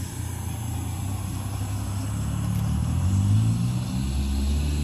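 A car engine running and speeding up: its low drone rises in pitch over a second or so, then drops and settles a little after three seconds in.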